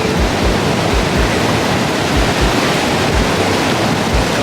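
Wind buffeting the microphone in irregular low thumps over a steady rush of ocean surf.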